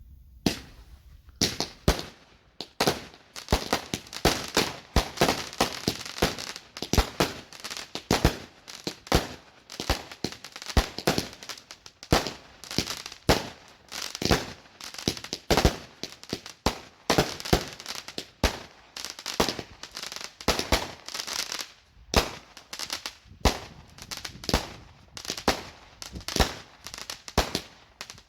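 Consumer fireworks going off in rapid, continuous succession: sharp bangs about once or twice a second with dense crackling between them.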